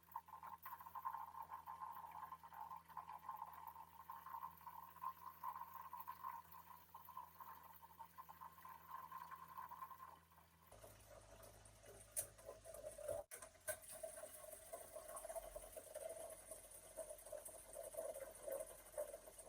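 Water pouring from a jug into the fresh-water tank of a portable flushing toilet, a faint steady pour.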